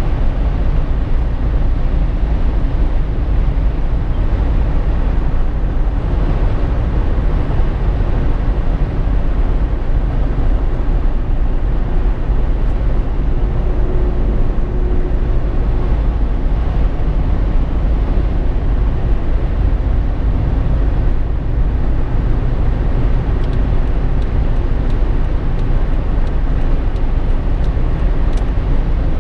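Steady road noise inside a Jeep Wrangler JK's cabin while driving: a constant low rumble of tyres, engine and wind, with no changes.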